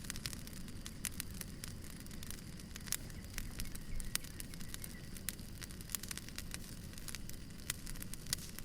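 Wood fire crackling: irregular sharp pops and snaps of burning firewood over a steady low rumble.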